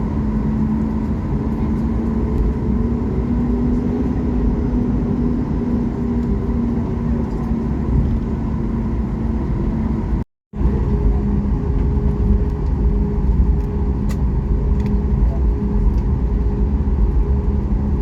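Cabin noise inside a Ryanair Boeing 737 MAX 8-200: a steady low rumble with the even hum of its CFM LEAP-1B jet engines. The sound cuts out completely for a split second about ten seconds in.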